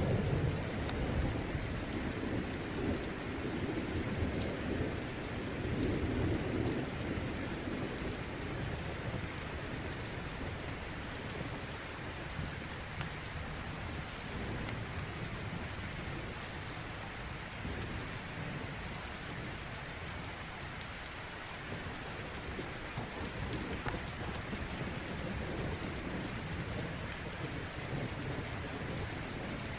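Steady rain with a low rumble of thunder through the first several seconds that then eases off. Faint scattered crackling from a wood fire sounds throughout.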